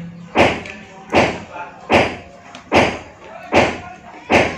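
Steady chopping: a heavy knife or cleaver striking a cutting board about once every 0.8 seconds, six strikes, each a sharp thud.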